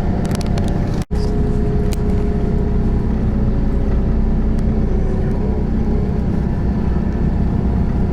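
Steady engine and road noise of a moving vehicle, with a brief dropout in the sound about a second in.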